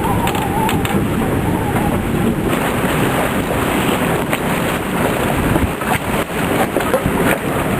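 Storm wind gusting hard and buffeting the microphone, with rain, and a wavering whistle that fades out about two seconds in. A few sharp knocks come through the gusts.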